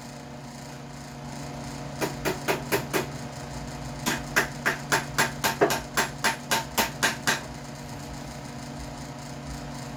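Tapping on the carburetor of a Craftsman 6.75 hp lawn mower to free a float that is suspected to be stuck and letting fuel leak. The taps come in two runs of sharp knocks: about five, about two seconds in, then about a dozen at roughly four a second.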